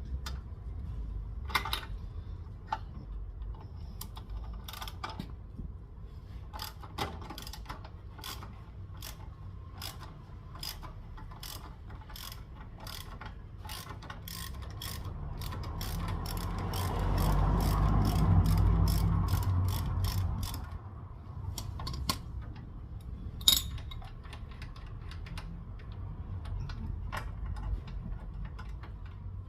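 Ratchet wrench with a 15 mm socket clicking in quick, even strokes as a motorcycle pedal bolt is backed out. A low rumble swells and fades about halfway through.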